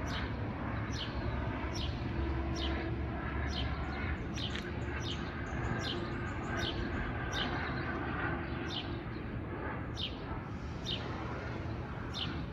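A bird repeating the same short, falling chirp a little more than once a second, over a steady low rumble.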